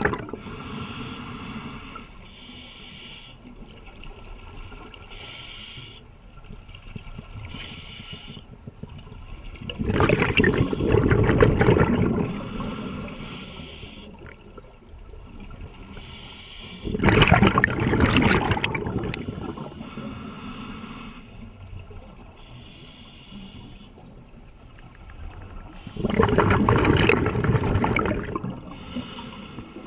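Scuba diver breathing through a regulator underwater: three loud bubbling rushes of exhaled air, about eight seconds apart, with softer regulator hiss between breaths.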